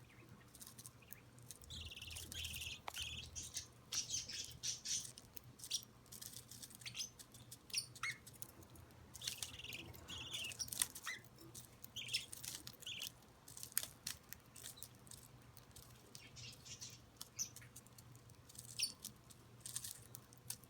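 A group of budgerigars, chicks and their adult father, chirping and squawking in many short, high calls scattered throughout, some of them scratchy, over a faint steady low hum.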